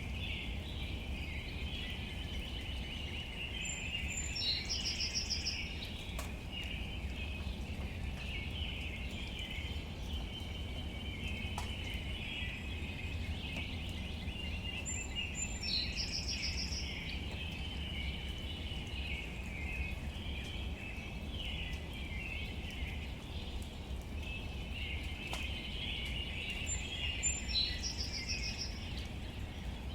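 Outdoor nature ambience: a steady high chirring hiss over a low rumble, with a short bird song phrase three times, about every eleven seconds.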